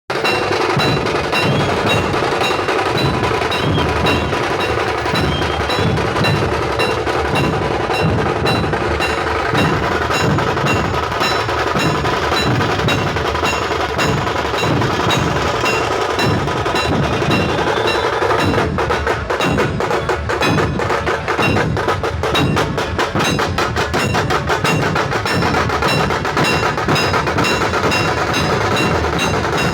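Loud procession drumming: many drums beating a steady, driving rhythm, with a denser, faster stretch of strokes from about two-thirds of the way through.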